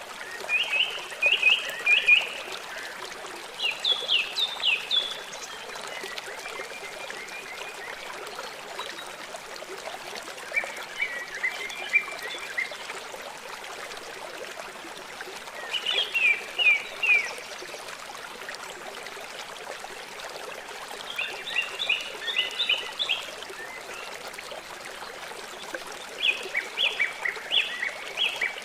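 A small songbird singing short phrases of quick, high chirps, one phrase every four to six seconds, over the steady rush of running water.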